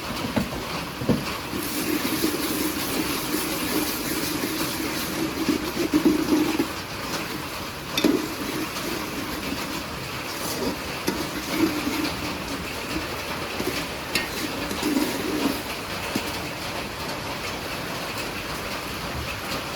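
Heavy rain falling steadily, a continuous hiss.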